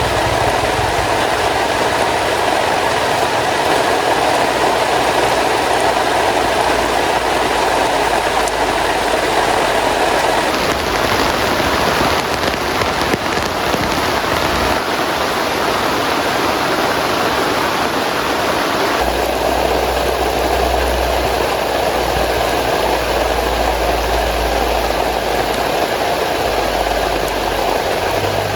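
Heavy rain falling steadily on a tent canopy, with a low rumble coming in about two-thirds of the way through.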